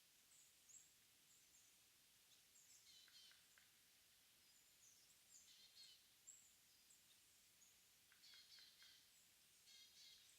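Faint high-pitched calls of small wild birds in early-morning mountain woodland, coming in a few short clusters of chirps over a quiet hiss; they are not Mugimaki Flycatchers.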